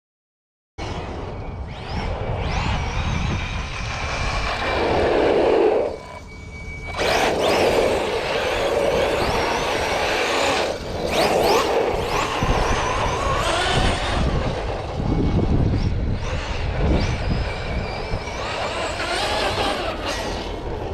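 Radio-controlled cars driving hard on pavement: electric motors whining, the pitch rising and falling with the throttle over gear and tyre noise. It starts abruptly just under a second in and dips briefly around six seconds in.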